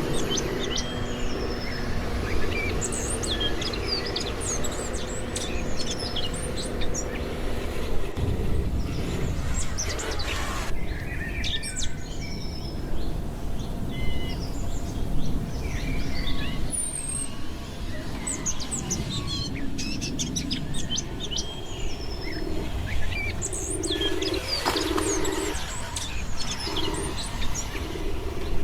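Small birds chirping and tweeting throughout, with many short calls over a low steady outdoor rumble. A steady mechanical hum is also there and stops about eight seconds in.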